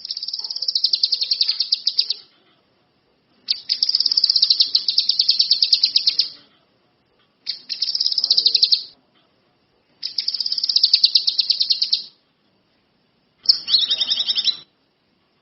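A songbird singing in fast trills of rapidly repeated high notes, in five phrases of one to three seconds each with short pauses between.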